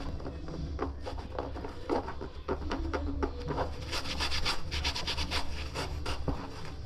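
Hands working a mountain bike tyre onto its rim, the rubber rubbing and scraping against the rim in short, irregular strokes that grow busier about four seconds in.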